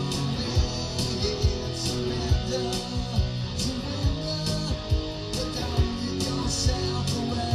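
Rock music playing: guitars over a steady drum beat, no vocals.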